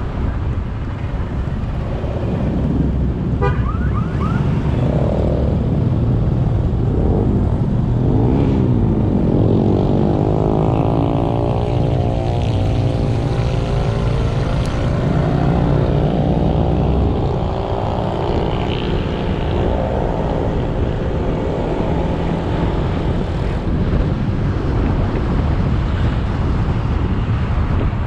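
Motorbike riding in traffic: engine running under steady wind and road noise, with an engine whose pitch climbs for a few seconds around the middle and then falls away.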